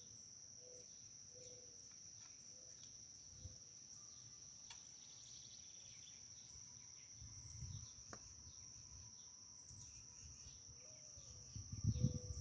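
Steady high-pitched insect chorus of crickets, with faint, short, distant canine calls repeating now and then, which the listener takes for coyotes or for neighbours' dogs echoing. Low wind rumble on the microphone rises near the end.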